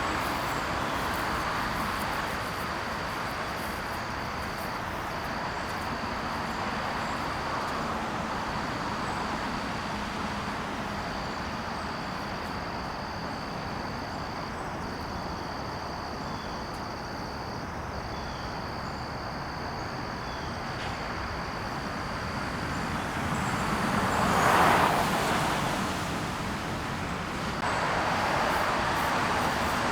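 Steady hum of road traffic, with one vehicle passing, louder then fading, about three-quarters of the way through. Over it runs a steady high-pitched trill that breaks off every few seconds.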